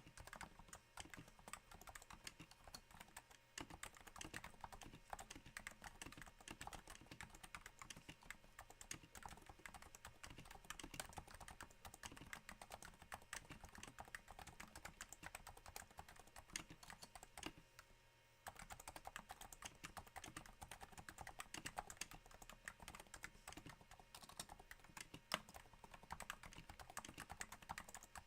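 Steady typing on a Cooler Master Novatouch with Topre switches damped by Hypersphere silencing rings: a fast, soft patter of keystrokes that sounds a little like rain. There is a brief pause about 18 seconds in.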